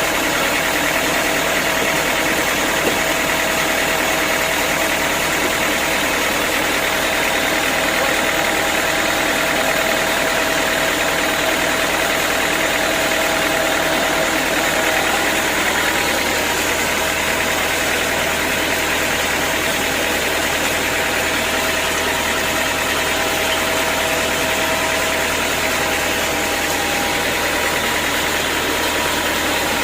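Sawmill machinery running steadily: an even mechanical drone with a constant high whine that holds the same pitch throughout.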